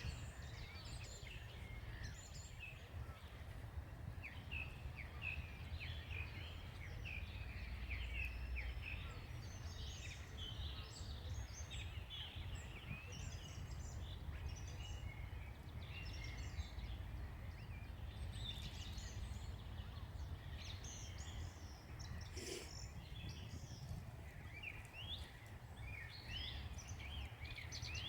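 Several songbirds chirping and twittering over a steady low rumble of outdoor background noise.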